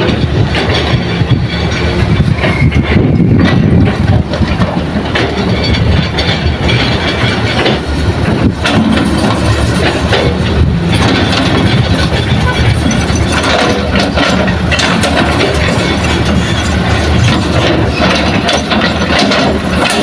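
Heavy diesel earthmoving machinery running loudly and steadily under load, with scattered clanks and knocks.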